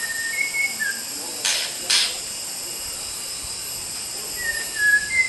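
White-rumped shama whistling short, clear notes at the start and again near the end, over a steady high hiss of forest insects. Two short, harsh noisy bursts, about half a second apart, come in between.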